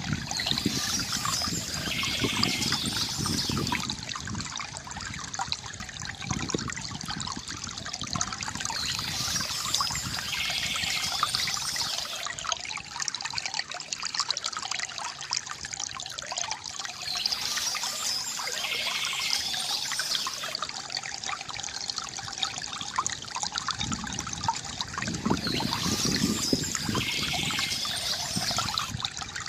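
River water gurgling and trickling steadily, with faint high bird chirps over it. The same stretch of sound comes round again about every eight and a half seconds, as in a looped recording.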